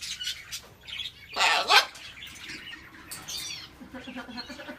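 A parrot gives one loud, harsh squawk about a second and a half in, with shorter chirps and whistles from birds before and after it.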